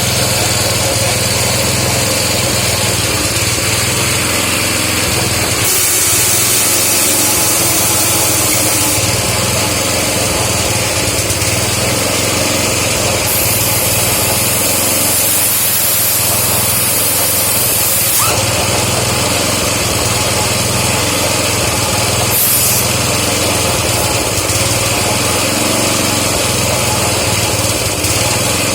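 Air compressor motor running steadily, with hiss from the air line in three bursts: two long, one short. This is typical of inflating a tubeless motorcycle tyre on a converted spoked rim.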